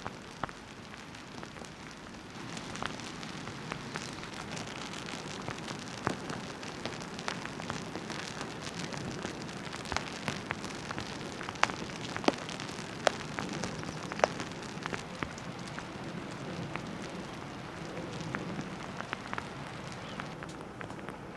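Steady rain falling, with many scattered sharp drop ticks over the even hiss.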